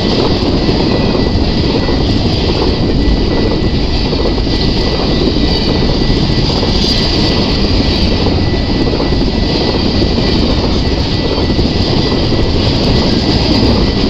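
Double-stack intermodal freight train's well cars rolling past, a loud, steady rumble of steel wheels on rail. A thin high whine runs through it.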